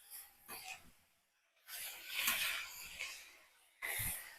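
Stir-fried vegetables and Spam being tossed with metal spatulas on a Blackstone flat-top griddle: short, separate bursts of scraping and sizzle.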